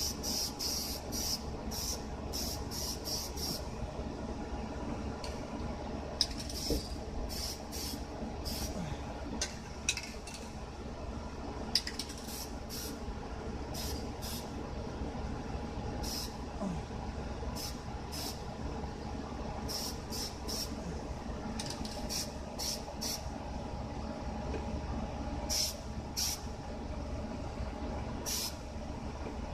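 Aerosol spray paint can spraying in many short hisses with brief pauses between, over a steady low background hum, with a few sharp clicks in the middle.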